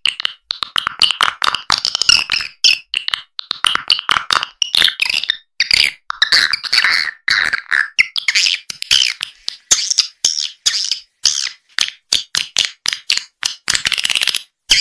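Recorded edible-nest swiftlet calls played as a lure track for a swiftlet house: rapid twittering chirps and clicks, many a second, in dense runs broken by brief gaps.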